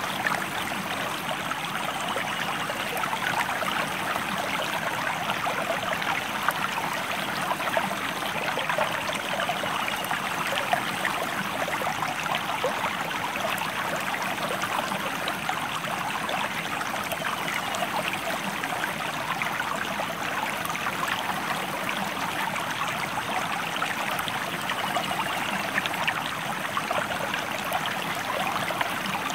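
Stream water flowing steadily over rocks, a continuous rush with fine trickling detail.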